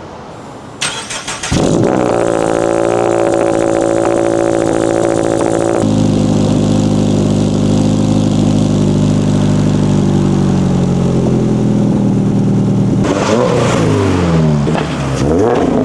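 Subaru BRZ's flat-four engine through an AWE Touring exhaust: it starts up about a second and a half in and runs at a steady fast idle, drops abruptly to a lower steady note around six seconds, then is revved up and down several times near the end.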